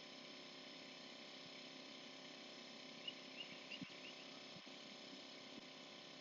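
Near silence: faint steady background hiss, with a few faint short high chirps about three to four seconds in.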